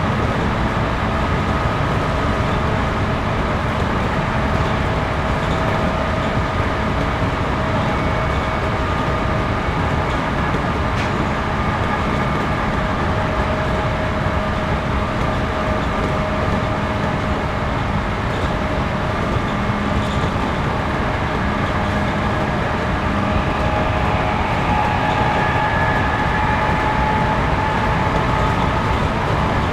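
Cabin running noise of a JR Series 211-5000 electric train under way: a steady rumble of wheels on rail with a faint, steady whine from the motors and gears.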